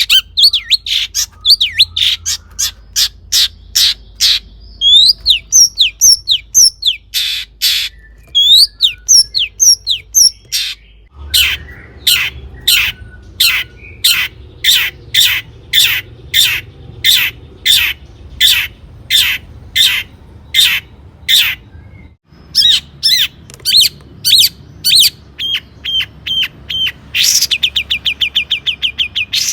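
Long-tailed shrike singing: sharp, loud calls repeated about twice a second, mixed with varied slurred notes, and a fast chattering run near the end.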